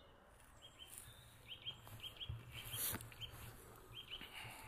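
Faint bird calls: short, high chirps, mostly in quick pairs, repeating every half second or so. A single faint click about three seconds in.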